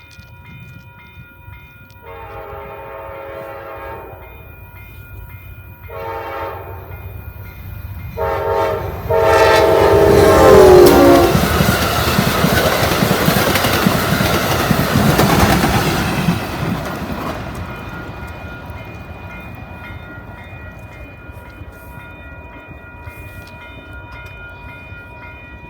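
Amtrak P42 diesel locomotive's horn sounding the long-long-short-long grade-crossing signal, the last long blast dropping in pitch as it passes. The train then rushes past loudly and fades away.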